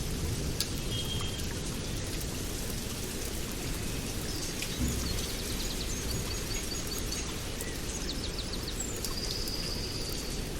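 A steady wash of water noise with birds chirping and trilling over it, several quick trills in the second half.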